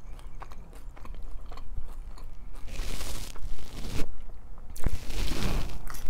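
Close-up eating sounds of a fried samosa with chutney: wet chewing, smacking and crisp crunches of the pastry. Two louder hissing stretches come about three and five seconds in.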